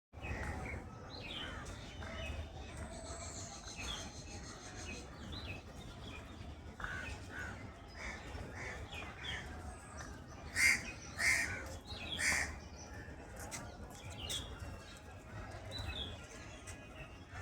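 Birds calling and chirping in a series of short calls, with three louder calls a little past the middle.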